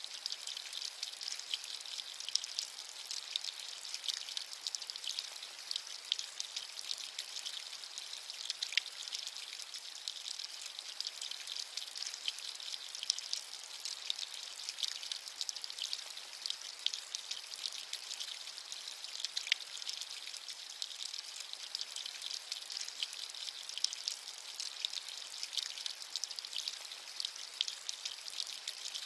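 Steady rain with a soft hiss and many fine, close drop patters throughout.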